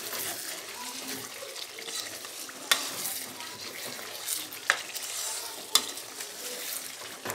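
Chicken karahi masala sizzling as it fries in a steel kadai, stirred with a spatula, at the bhuna stage of frying it down. A few sharp knocks of the spatula against the pan land about three, five and six seconds in.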